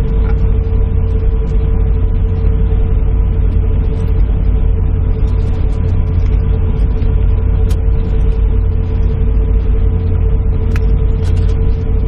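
Steady airliner cabin noise: a low rumble with a constant hum, and a few faint ticks.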